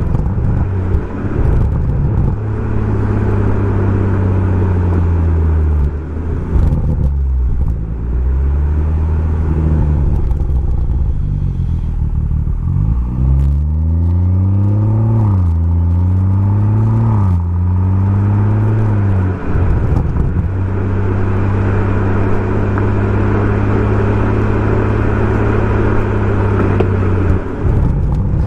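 Exhaust note of a BMW M140i's turbocharged 3.0-litre inline-six through a Remus aftermarket exhaust while driving. It holds a steady cruise, drops in pitch as the throttle eases off about six seconds in, then from about halfway accelerates in three rising pulls broken by two gear changes, before settling back to a steady cruise.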